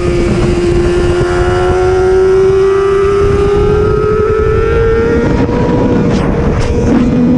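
Racing superbike engine pulling at high revs, its pitch climbing slowly for about five seconds and then holding, over a steady rush of wind noise, with a few brief crackles near the end.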